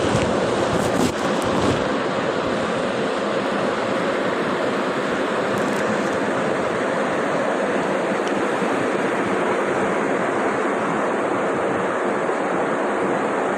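Steady rushing of flowing water, unbroken throughout, with a couple of brief knocks in the first two seconds.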